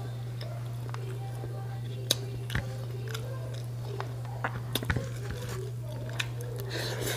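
Close-up mouth sounds of a person chewing food with wet lip smacks and a few sharp clicks, over a steady low hum.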